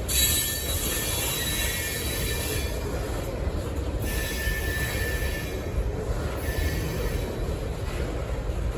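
Freight train rolling past with a steady low rumble, its wheel flanges squealing against the rail in high-pitched bursts: a long squeal at the start, another about four seconds in, and a faint one near seven seconds.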